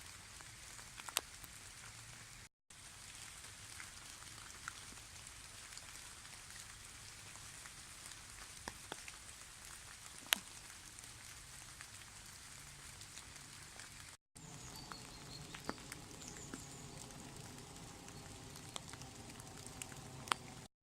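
Light drizzle in a birch forest: a soft even patter with scattered single drops ticking on leaves. The sound breaks off briefly twice.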